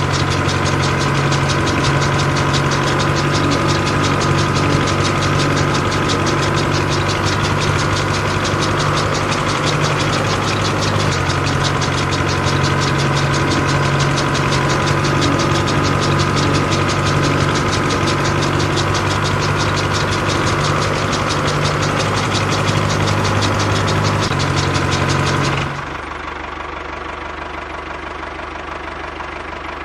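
Small electric motor of a homemade miniature chaff cutter running steadily with a rapid buzzing rattle. Near the end the sound drops suddenly to a quieter, duller run.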